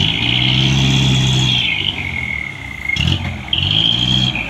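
Heavy diesel engine revving hard under load, with a high whine above it. The revving eases after about a second and a half, and the whine drops to a lower pitch and comes back up again near the end.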